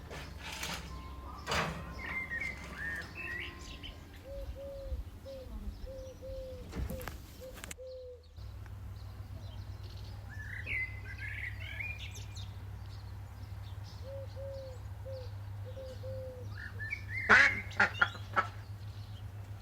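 Farmyard poultry calling in two runs of short, evenly repeated low notes, with small birds chirping higher up. A quick run of sharp clicks near the end is the loudest moment.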